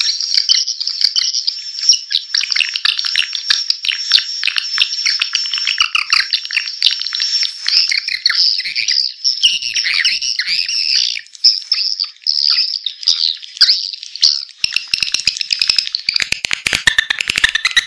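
Swiftlet lure call recording: dense, continuous high twittering and chirping of many swiftlets, played to attract swiftlets into a nest house. A run of very rapid clicks comes near the end.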